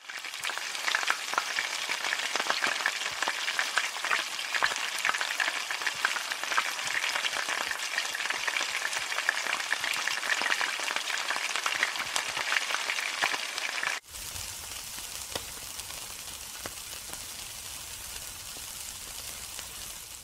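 Food frying in hot oil in a wok, a dense steady crackle and spatter. About fourteen seconds in it cuts suddenly to a quieter, steadier sizzle with a low rumble underneath.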